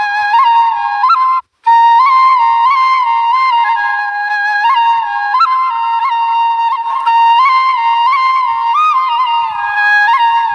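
Background music: a flute playing a single ornamented melody with quick grace-note turns, broken by a brief silence about a second and a half in.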